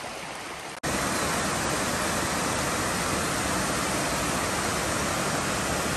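Steady rush of flowing water in a rocky river, an even hiss. About a second in it changes abruptly to a louder, fuller rush.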